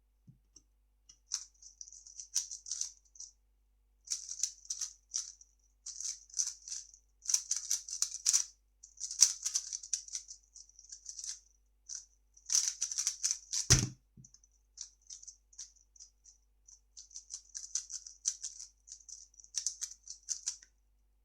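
A 3x3 speedcube being turned fast: quick flurries of plastic clicking and rattling, broken by short pauses. One dull thud comes about 14 seconds in.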